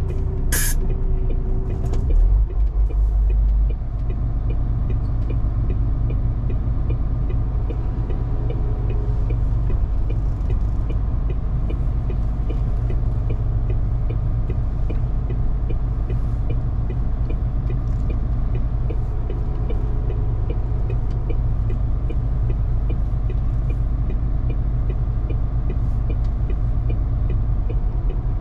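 MAN TGS 470 hp truck's diesel engine running under way, a steady low rumble with road noise. It swells briefly near the start, then settles to an even drone.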